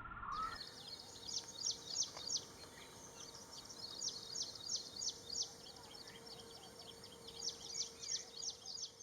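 Ashy prinia calling: runs of short, sharp, high-pitched notes, about four a second, in three bursts.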